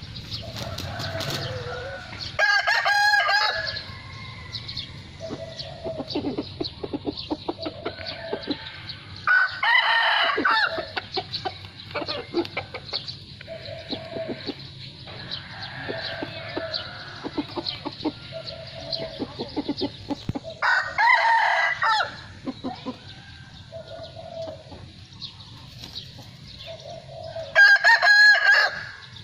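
Roosters crowing four times, each crow lasting about a second, with softer clucking between the crows.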